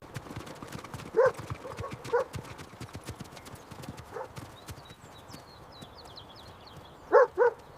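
Horse hooves clip-clopping at a walk, a steady run of hoof strikes, with a few short pitched calls now and then, two close together near the end.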